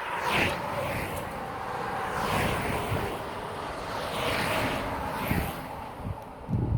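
Wind rushing over a phone's microphone, mixed with road noise on a bike ride. It rises and falls in several swells, with a few low thumps near the end.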